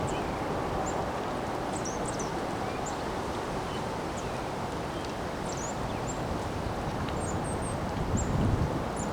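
Windstorm wind blowing steadily, with a gust buffeting the microphone near the end. Faint short high chirps sound throughout.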